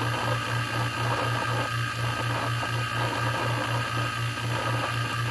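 Electric A/C vacuum pump running steadily, its hum pulsing evenly about five times a second, as the vacuum on the system slowly draws compressor oil in through the charge hose.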